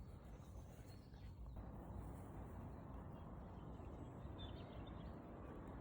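Faint outdoor ambience: a steady low rushing noise with a few faint bird chirps, one about four and a half seconds in.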